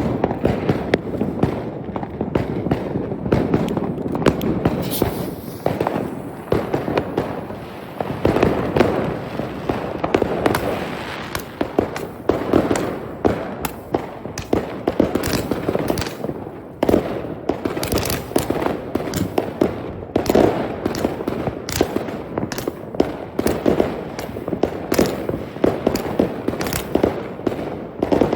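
Fireworks going off without pause: a dense run of sharp bangs and crackles, with many shots overlapping.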